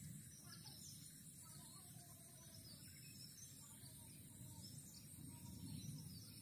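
Near silence: faint outdoor ambience with scattered distant bird chirps over a low, steady background noise.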